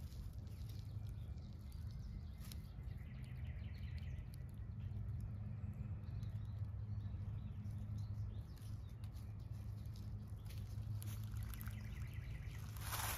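Quiet woodland background: faint bird chirps now and then over a steady low hum.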